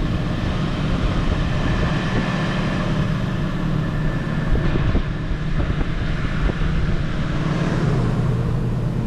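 Truck camper's rooftop air conditioner running on high cool with a steady hum, blowing cold air.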